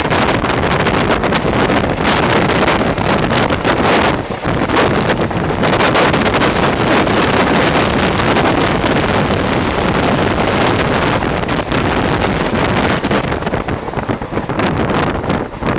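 Express passenger train running at speed, heard from on board as a loud continuous rush, with heavy wind buffeting the microphone.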